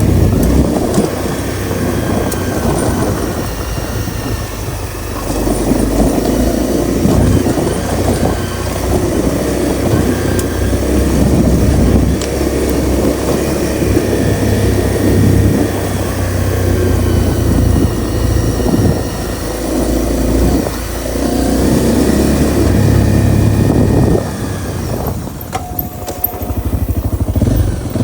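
Honda CRF250L's single-cylinder four-stroke engine running while being ridden, the throttle rising and falling, with wind and road noise. The engine drops back to a softer note for a couple of seconds near the end.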